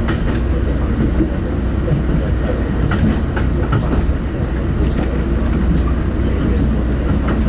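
Diesel railcar running along the track, heard from on board: a steady low rumble with scattered clicks from the wheels over the rails.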